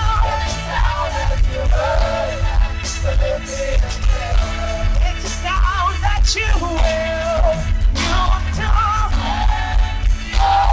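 Church chorale singing with a band: voices with vibrato over a heavy, pulsing bass beat and drums.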